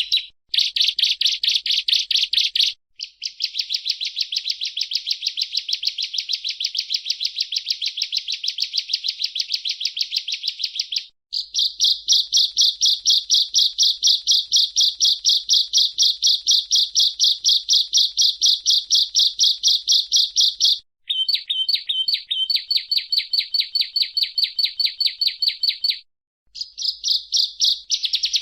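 Bar-winged prinia (ciblek, Prinia familiaris) singing: long, fast trills of evenly repeated high notes, each run lasting several seconds, with brief pauses between runs. About two-thirds of the way through, the song changes to a stuttering run of lower notes before the steady trill resumes.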